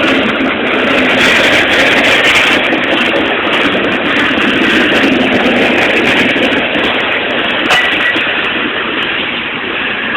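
Freight cars rolling past on steel wheels, a steady, loud rolling noise of wheels on the rails.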